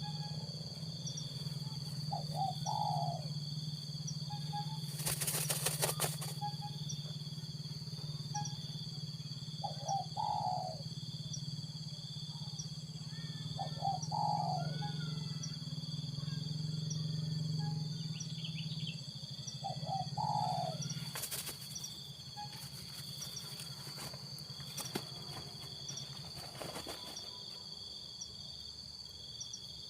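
Spotted dove cooing, a short low phrase repeated every few seconds, over steady high insect buzzing, with a few brief rustling bursts.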